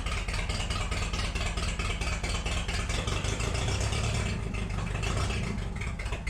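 An old forklift's four-cylinder engine running, with a quick, even train of firing pulses. The engine still has worn ignition points.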